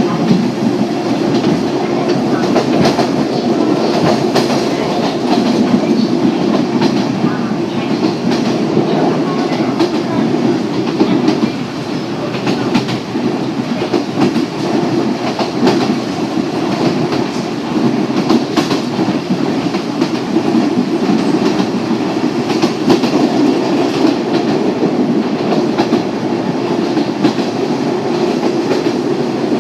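Yoro Railway electric train running along the line, heard from inside the carriage: a steady rumble with the wheels clacking over rail joints throughout.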